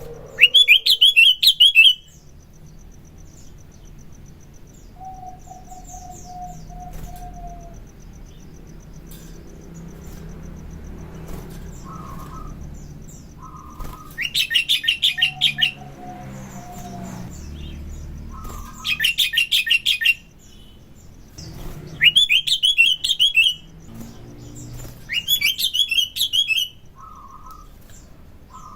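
Sooty-headed bulbul (kutilang) singing in loud bursts of rapid chattering notes, each lasting a second or two. There is one burst at the start and a run of them from about halfway on, with softer, lower notes in the pauses.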